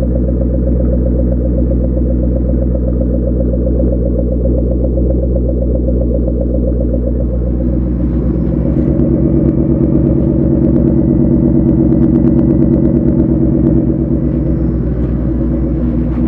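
Supercharged Ford Mustang V8 running at idle through its exhaust, a steady pulsing rumble. About eight seconds in it grows louder for several seconds, then eases back.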